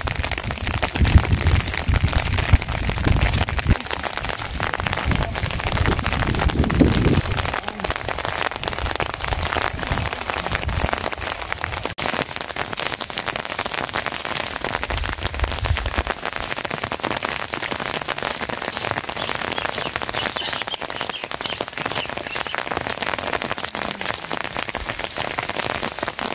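Heavy rain falling steadily, a dense hiss of drops striking surfaces, with a low rumble in the first several seconds and again briefly past the middle.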